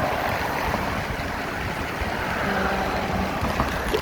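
Steady rushing wind noise on the microphone with tyre rumble from a bike being ridden.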